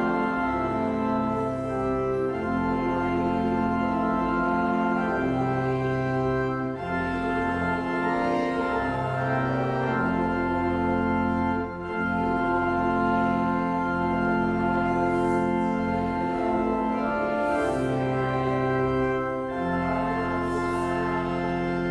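Church organ playing slow sustained chords over a moving bass line, the chords changing every couple of seconds.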